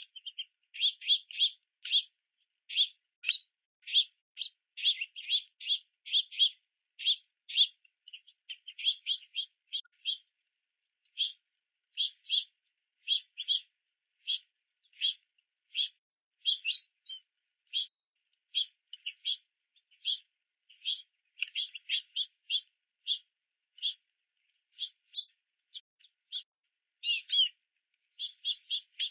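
Juvenile house finches begging for food with short, high chirps repeated about one to two a second, with brief pauses and a quicker cluster of calls near the end.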